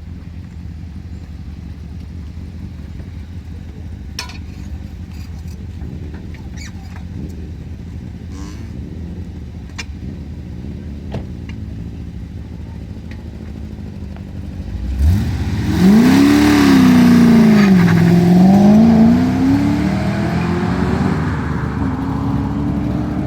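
6-litre V8 in a Mazda RX-7 idling with a low rumble, then about 15 seconds in launching hard: the revs climb sharply, drop back at a gearshift and climb again before the sound settles lower as the car pulls away.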